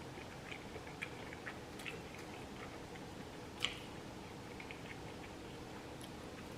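Quiet eating sounds: soft chewing with scattered small wet mouth clicks, one sharper click about halfway through.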